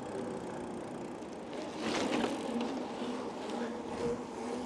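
Steady rolling noise of a bicycle ride on a paved path, with a louder rush about two seconds in and a faint steady hum after it.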